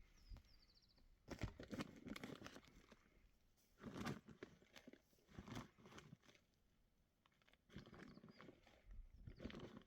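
Faint, intermittent crunching and rustling in several short bursts, with a few faint high chirps near the end.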